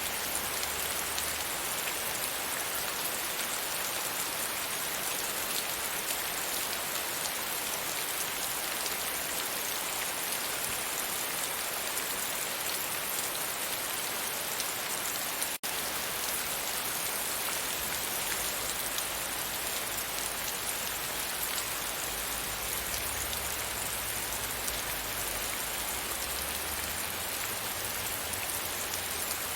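Steady rain falling, an even hiss with a faint low rumble that comes and goes. The sound cuts out for an instant about halfway through.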